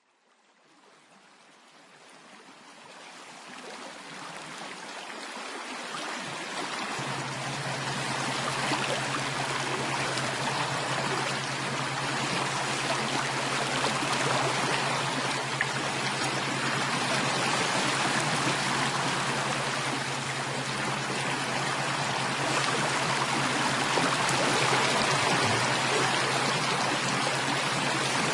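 Running water, a steady stream sound that fades in gradually over the first several seconds and then holds steady. A steady low hum joins it about seven seconds in.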